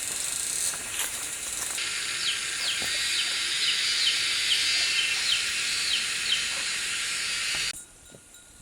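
Insect chorus: a loud, steady high-pitched hiss, with a series of short falling chirps at about two a second through the middle. It cuts off suddenly near the end.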